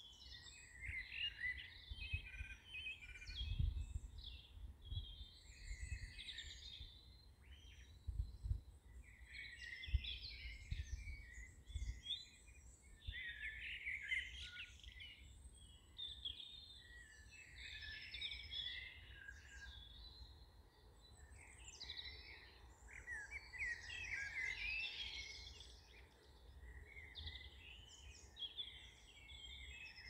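Birdsong: several small birds chirping and singing in quick, overlapping phrases, with occasional low rumbles underneath.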